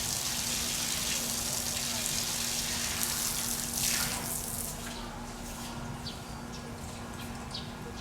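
Running water, a steady hiss that stops a little past halfway; then a few short, high chirps.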